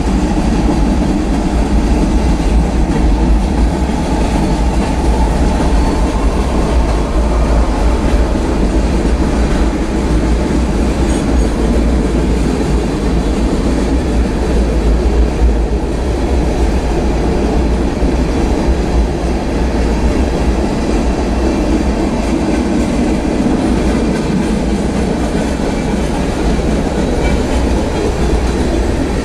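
Freight train's cars (tank cars, covered hoppers and boxcars) rolling past close by: a steady, loud rumble of steel wheels on rail with clickety-clack over the rail joints.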